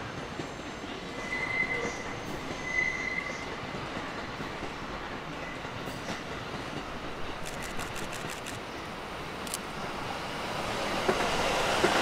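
An E257-series electric limited express train approaching and running past on the rails, its wheel and running noise building up over the last two seconds as it reaches the platform. Two brief high tones sound about one and a half and three seconds in.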